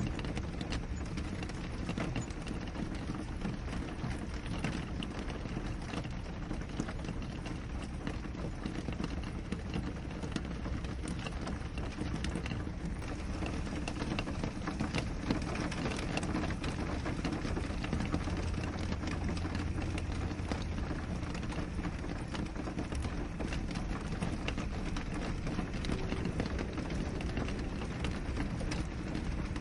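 Steady rain falling on window glass, a constant hiss with scattered drops ticking. A low rumble swells briefly about two-thirds of the way through.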